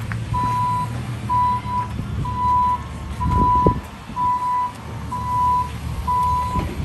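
Reversing alarm on a construction-site vehicle beeping steadily, a single-tone beep about once a second, seven in all, over the low running of the vehicle's engine. A brief knock comes about halfway through.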